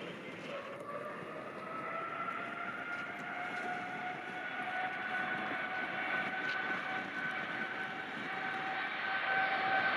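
Jet airliner engines running with a rushing roar and a whine that climbs slowly in pitch, growing louder near the end.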